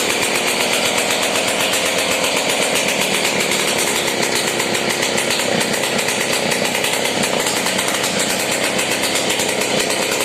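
Restored Sh-58 single-cylinder two-stroke moped engine running steadily at a fast, even buzz after its first start.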